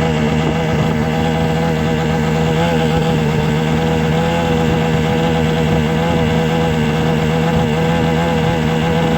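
A steady, even machine-like hum with several held tones that waver slightly, like a motor running without change.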